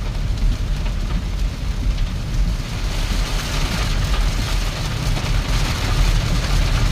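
Heavy rain pouring down in a summer downpour, a continuous hiss that grows louder about two and a half seconds in, over a steady low rumble.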